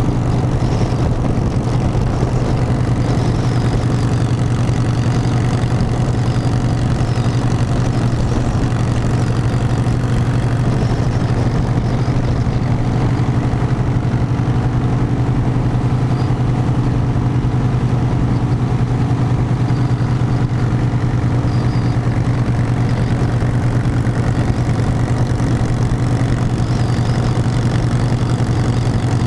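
Harley-Davidson V-twin motorcycle engine running steadily at an even pitch with no change in speed.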